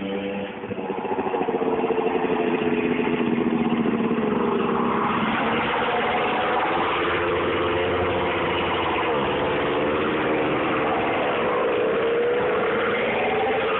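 125 cc two-stroke dirt bike engine running while ridden, its pitch rising and falling with the throttle and growing louder about a second in.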